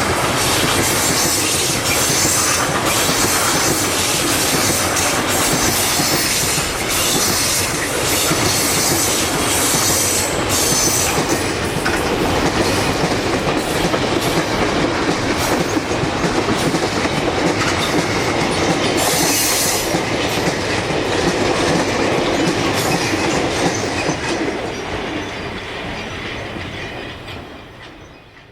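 Freight train wagons rolling past, their wheels clicking over the rail joints in a continuous clickety-clack, fading away near the end.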